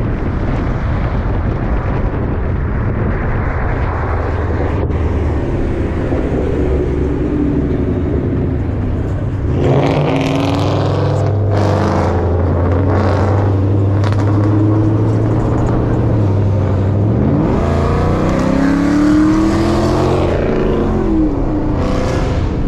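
Car engine running steadily, then revving up about three-quarters of the way through and easing back down.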